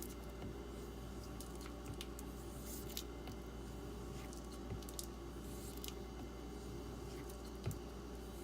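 D2 steel knife blade being stroked across a leather strop loaded with 1-micron diamond paste: soft, irregular swishes over a steady low hum.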